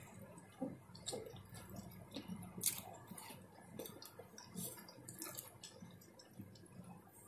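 A person chewing with their mouth open and smacking their lips while eating by hand. It comes as faint, irregular mouth clicks and smacks, with one sharper click a little under three seconds in.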